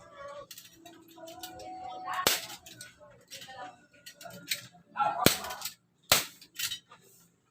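Three sharp knocks, the last two close together, like blows struck while repairing a bed.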